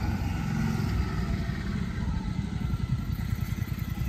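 Tractor engine running, a steady low, rapidly pulsing beat.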